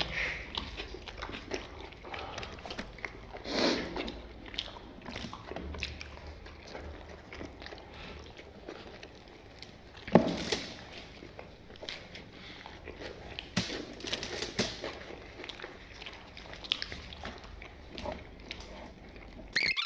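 People chewing and biting thick, heavy Kashmiri naan and tearing pieces off by hand, with scattered small clicks and crackles and a couple of louder bursts around 4 and 10 seconds in.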